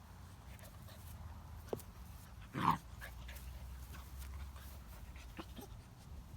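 Great Dane puppy lets out one short bark about two and a half seconds in, with a few light knocks and taps from its play around it.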